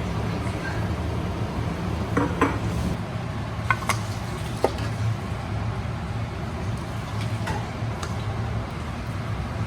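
Kitchenware clinking a handful of times, utensils knocking against pots and dishes, over a steady low hum.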